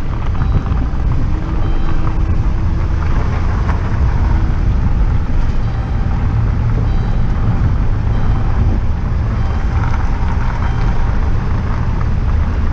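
Truck driving along a street: a steady low engine and road rumble with some rattling.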